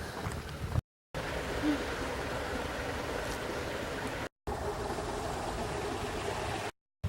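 Steady rushing noise, like running water or wind, broken three times by brief dead-silent gaps where the audio cuts out.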